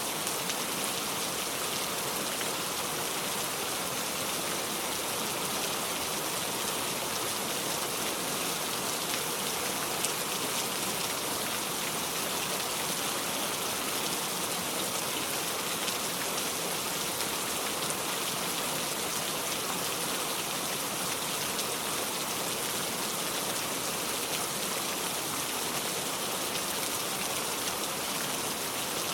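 Steady rain falling: an even, unbroken hiss of many drops that neither builds nor fades.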